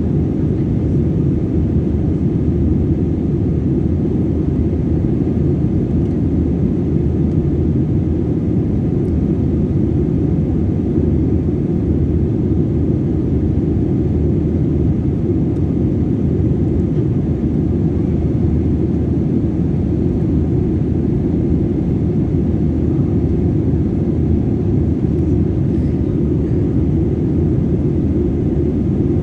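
Steady low drone of an Airbus A320 in flight, its engines and airflow heard from inside the passenger cabin, unchanging throughout.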